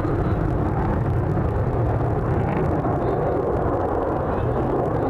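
Airplane engine noise at an air show: a steady, loud rumbling drone with no change in pitch.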